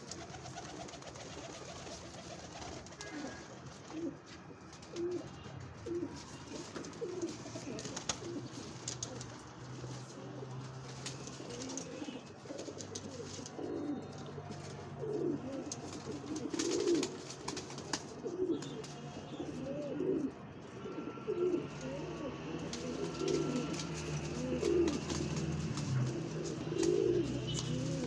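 Several domestic pigeons cooing, with short arching coos repeating and overlapping throughout and growing busier in the second half. A steady low hum and scattered clicks sit underneath.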